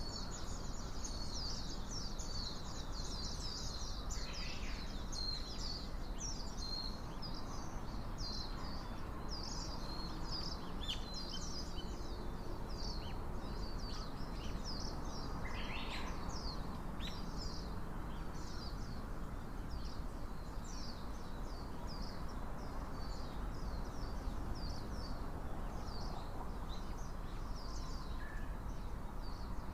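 Small birds chirping and twittering almost without pause, a dense run of short, high overlapping calls that is busiest in the first few seconds and thins out later, over a steady background hiss.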